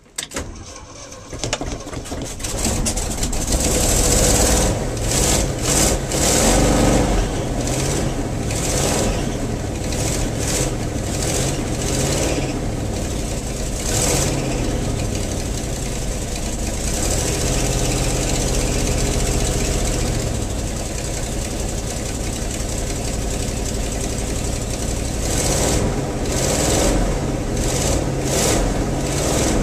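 1974 Ford F250 pickup's engine cold-starting and catching almost at once. It runs louder and unevenly for a few seconds, then settles into a steady idle.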